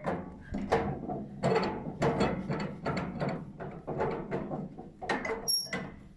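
A run of about a dozen sharp mechanical clicks and clatters at an uneven pace, with a brief high metallic ring about five and a half seconds in.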